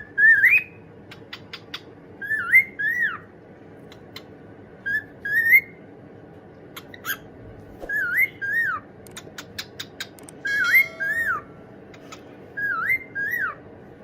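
A pet bird whistling short phrases of sliding notes that swoop up and then drop, about eight phrases with pauses between them, and sharp clicks in between.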